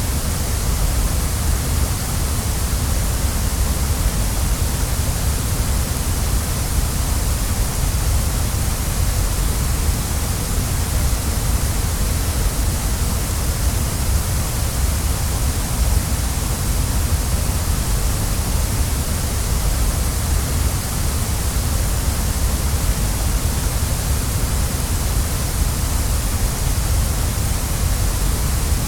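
Waterfall rushing: a steady, unbroken roar of falling water with no changes.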